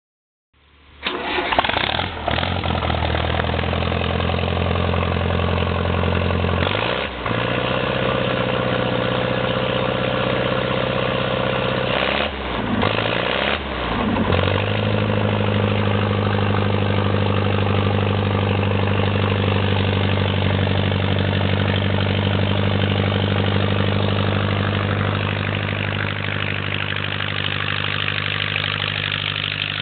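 International Harvester Farmall 544 tractor engine starting about a second in through a short straight exhaust pipe, then running loud and steady. Its speed dips briefly a couple of times, around seven seconds and again between twelve and fourteen seconds, before it settles into an even run.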